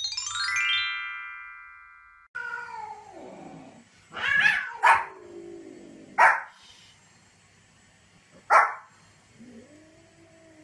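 A short descending run of ringing synth tones, a countdown stinger, then a Pomeranian barking sharply four times at cats, with cat meows in between.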